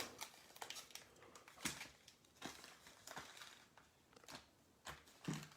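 Faint, scattered rustles and light taps of trading-card packs and wrappers being handled.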